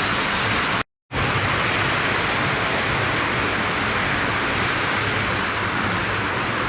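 Postwar Lionel O gauge toy steam locomotive running around the track: a steady rush of metal wheels on the rails over a low motor hum. The sound cuts out completely for a moment about a second in.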